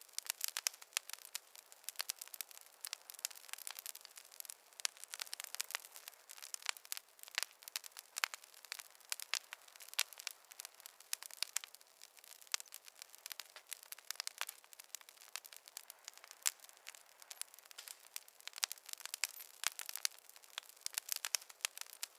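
Wood fire crackling: a dense, irregular stream of sharp pops and snaps over a faint hiss.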